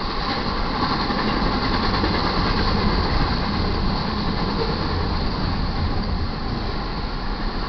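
Double-stack intermodal container cars of a freight train rolling past: a steady, even rumble and rattle of steel wheels on the rails.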